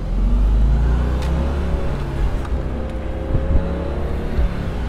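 Audi S4's 4.2-litre V8 running at low revs on light throttle while driving, its pitch climbing slowly, over a deep rumble.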